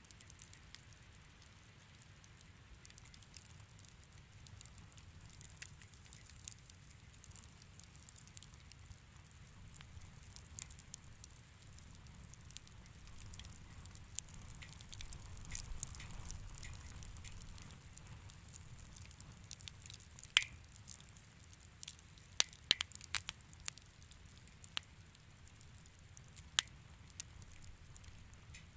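Wood fire crackling in a fireplace: scattered sharp pops and snaps over a soft low rumble, with a cluster of louder pops in the last third.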